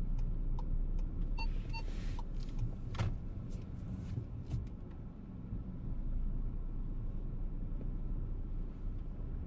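Parking-sensor beeps in a VW T-Roc during reverse parking: a few short, evenly spaced beeps in the first two seconds, then they stop. Under them the low rumble of the car's petrol engine creeping at low speed heard from inside the cabin, with a few sharp clicks.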